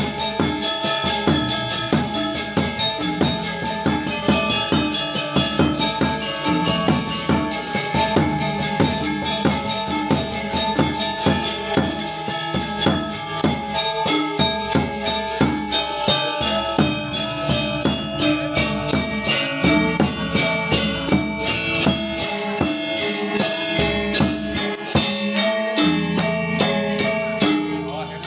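Balinese gamelan gong ensemble playing: bronze metallophones and gongs ringing with dense, rapid struck patterns. The strokes grow faster and denser in the second half.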